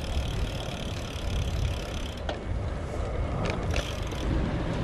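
Bicycle riding noise: a steady low rumble of wind and road on the bike-mounted microphone, with a sharp click a little past two seconds and a few more clicks around the four-second mark.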